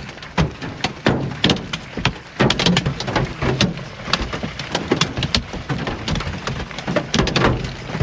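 Hailstones striking hard surfaces in a dense, irregular clatter of sharp hits.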